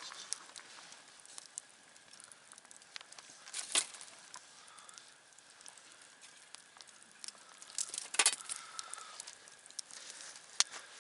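Campfire crackling, with scattered small snaps and two louder pops of the burning wood, about four and eight seconds in.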